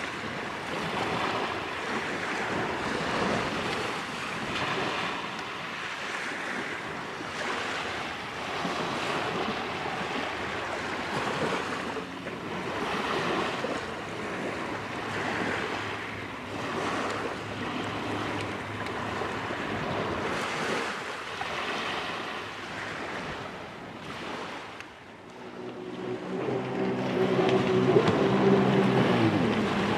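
Wind on the microphone over waves washing on the shore. Near the end a steady pitched drone grows louder for about three seconds, dips in pitch and cuts off.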